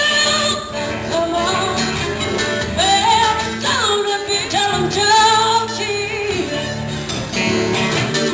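Live band music: a melody line with sliding, wavering notes over guitar accompaniment.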